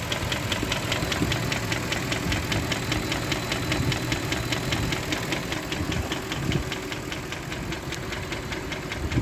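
BMW M62B44TU 4.4 V8 in a Range Rover Vogue idling with a steady, regular knock several times a second. The cause is unknown: the VANOS units usually blamed are welded up on this engine, according to the owner.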